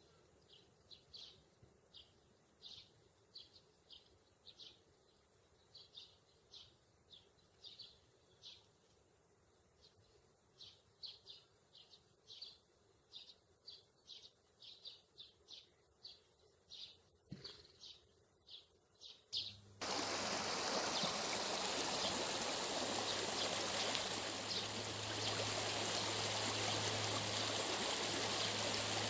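A small bird chirping over and over, short high chirps about twice a second. After about twenty seconds the sound cuts abruptly to a loud, steady rushing noise with a low hum under it.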